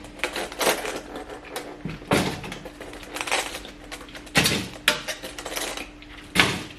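Water bottles knocking and clattering as they are set into a refrigerator drawer, in irregular knocks a second or so apart.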